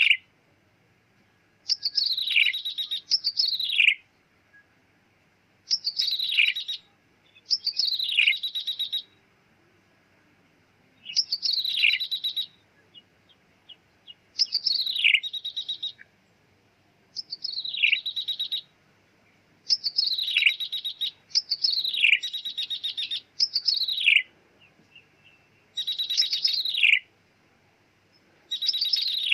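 Ciblek tebu prinia singing. Repeated phrases of a steep downward-sweeping whistle run into a fast buzzy trill, each a second or two long, with short pauses between. It is the bird's call as used on a lure recording for trapping.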